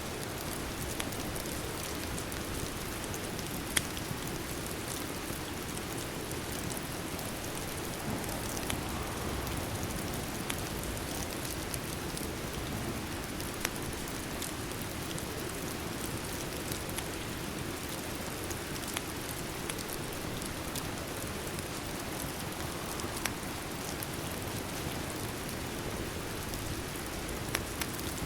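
Steady rain with a fire crackling beside it: an even hiss of rain, broken by a few sharp pops, the loudest about four seconds in.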